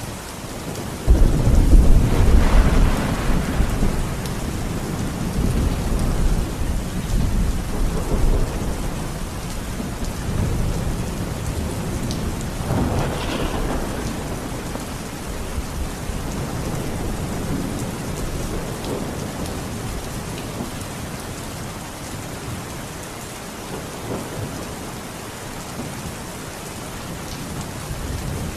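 Steady rain with rolling thunder: a sudden loud thunderclap about a second in rumbles on for several seconds, a second roll comes around the middle, and the rain settles quieter before more thunder starts building at the end.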